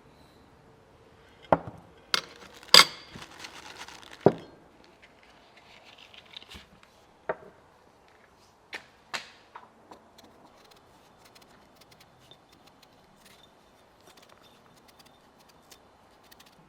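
Cooking utensils and containers being handled on a work surface: a series of sharp knocks and clinks, the loudest few in the first four seconds with some rustling among them, then sparser, quieter ticks.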